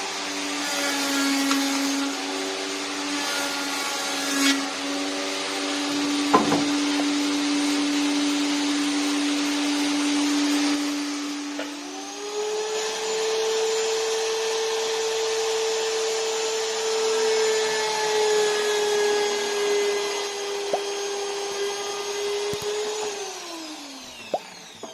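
Table saw motor running with a steady whine. About halfway through, its pitch steps up and then holds. Near the end it is switched off and winds down, the pitch falling until it stops.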